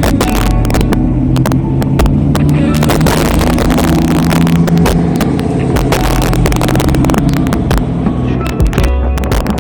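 A car engine running steadily at low revs, with many sharp clicks over it.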